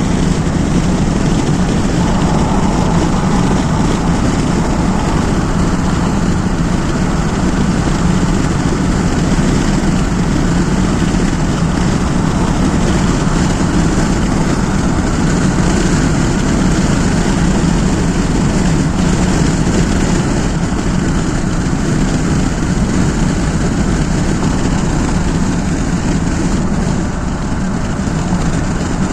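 Steady road noise of a moving vehicle: engine and tyres running on a rain-wet highway, unchanging throughout, with a slight dip in level near the end.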